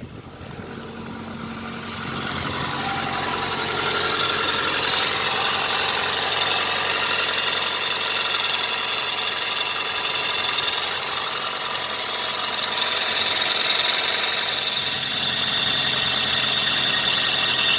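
Hyundai Accent engine idling with a harsh grinding squeal from the power steering pump, growing louder over the first few seconds and then steady. The noise comes from the pump's bearing while the belt is tensioned; it stops when the belt is slackened.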